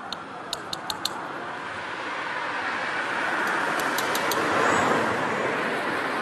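A road vehicle passing, its tyre and engine noise swelling to a peak about five seconds in and then easing off. A few light, sharp clicks come in the first second and again around four seconds in.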